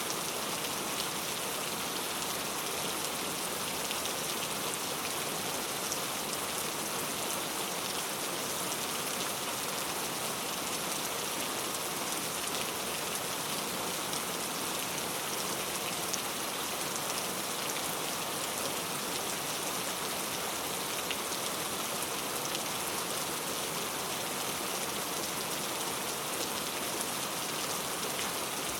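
Steady rain falling, an even hiss of drops with faint individual patters and no change in intensity.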